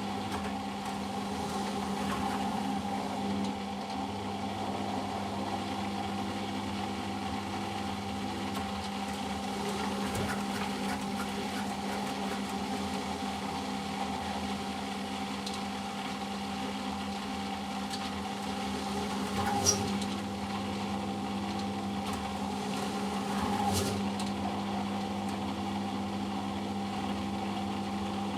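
Eudora Sparmeister 702 Classic washing machine in its first intermediate spin: the motor and drum run at a steady speed with an even hum. Two short clicks come about two-thirds of the way through.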